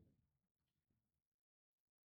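Near silence: a faint low sound dies away in the first half second, then the track goes dead silent.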